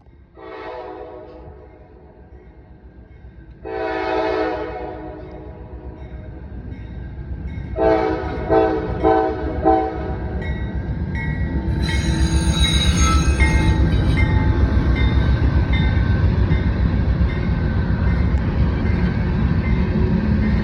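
Diesel locomotive horn on an approaching Norfolk Southern coal train: two longer blasts, then four short ones. The rumble of the locomotives and loaded cars then builds to a steady loud passing roar, with a high metallic wheel squeal a few seconds into it.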